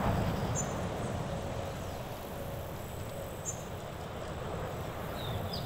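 Outdoor ambience: a steady background hiss with a few faint, short high bird chirps, once about half a second in, again about three and a half seconds in, and a few more near the end.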